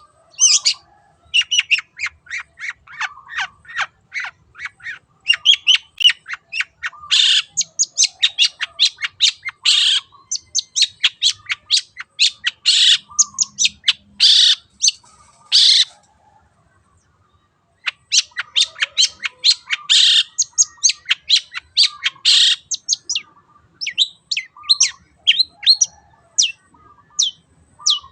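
Long-tailed shrike (cendet) singing a fast run of short, sharp notes mixed with longer harsh notes, pausing for about two seconds past the middle before starting again.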